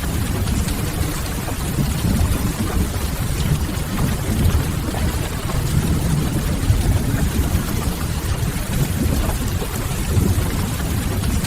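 Steady rain with the crackle of a wood fire, over a deep, even rumble.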